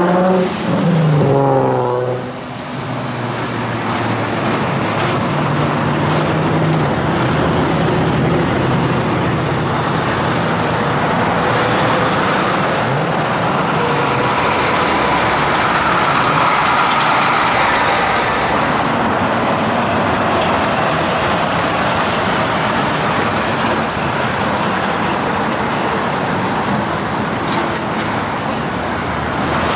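Highway traffic with big rigs passing: an engine note rises twice in the first two seconds as a truck accelerates, then steady tyre and engine noise from passing traffic.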